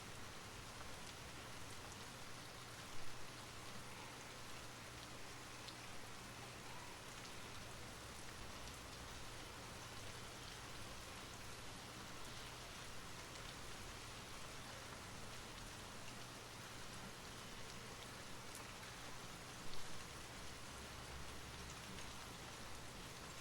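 Steady rain falling, with scattered drops ticking on a surface. Two brief louder knocks stand out, about three seconds in and again near the end.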